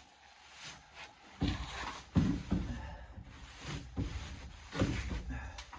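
Handling noise while cleaning out a brooder box: about five thumps and knocks with scraping between them, the sharpest about two seconds in.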